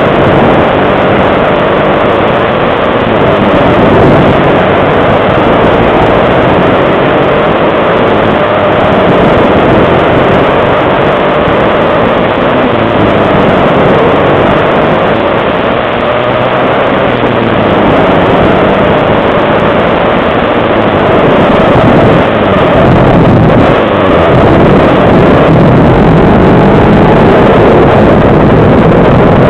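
Pit bike engines racing at high revs, the pitch climbing and dropping again and again as the throttle is opened and shut through the turns. Wind buffets the microphone throughout.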